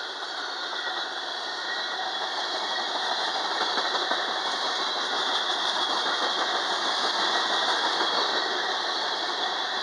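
Freight cars of a long train rolling past at speed: steel wheels running on the rails in a steady rushing roar with clickety-clack, growing a little louder from about two seconds in.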